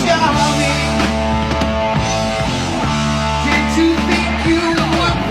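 Hard rock music with electric guitar and drums.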